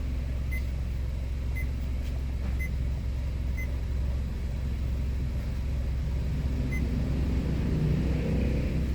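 A Honda BR-V's engine idles steadily with a low hum. A short high beep repeats about once a second.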